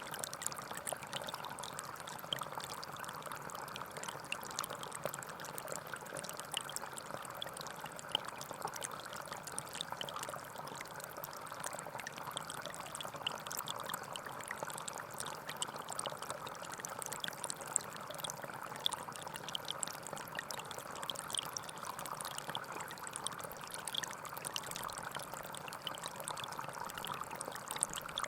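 Gentle forest stream flowing steadily, a continuous babble of water with many small splashes and drips.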